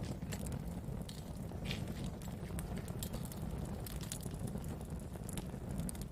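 Wood fire burning: a steady low rumble of flames with scattered sharp pops and crackles of burning wood.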